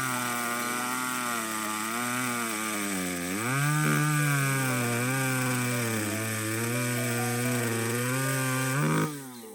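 A small engine running steadily, its pitch wavering up and down and rising about three and a half seconds in. It stops abruptly near the end.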